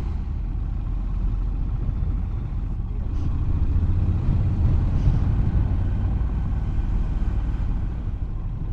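Motorcycle engine running while riding, with wind and road noise: a steady low rumble that swells a little about four to five seconds in.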